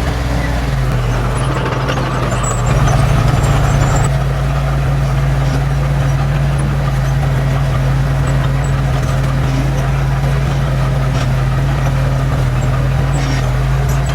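Diesel engine of heavy earthmoving machinery running steadily with a low drone, a little louder for about a second, starting about three seconds in.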